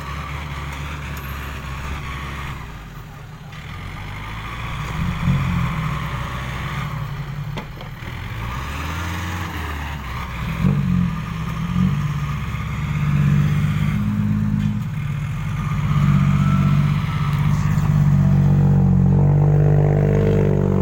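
Six-wheel dump truck's diesel engine running with several rises in revs, louder and steadier over the last several seconds.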